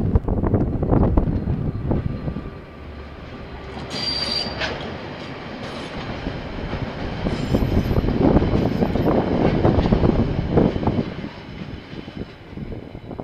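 Freight train of container wagons rolling past on the rails, with clickety-clack from the wheels and a brief high-pitched wheel squeal about four seconds in; the rolling noise swells as the wagons pass and eases near the end. Gusty wind noise on the microphone fills the first couple of seconds.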